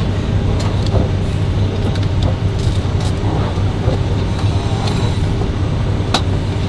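Steady low hum of aircraft cabin noise inside an E-3 Sentry, with a few faint clicks.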